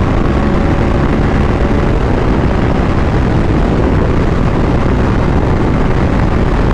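Motorcycle engine running steadily at highway speed, buried under heavy wind rush on the rider's microphone.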